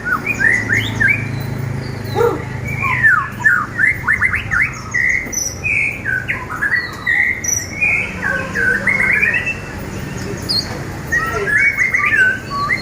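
Caged songbirds singing a dense stream of rapid, varied whistled notes, sweeping trills and chirps without pause.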